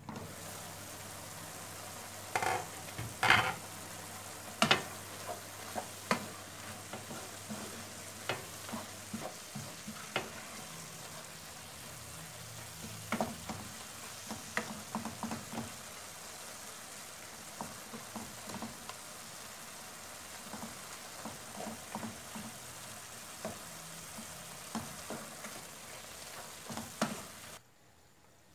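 Chicken and shredded vegetables sizzling steadily in a frying pan while being stirred with a wooden spoon, with scrapes and scattered sharp knocks against the pan, the loudest a few seconds in. The sizzle cuts off suddenly just before the end.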